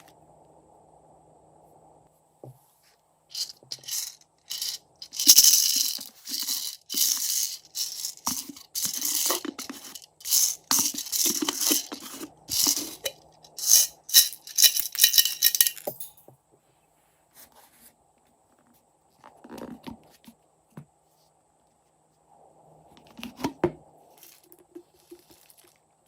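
Glossy slime being mixed, giving a long run of quick wet crackling pops and clicks, then a few scattered squelches near the end.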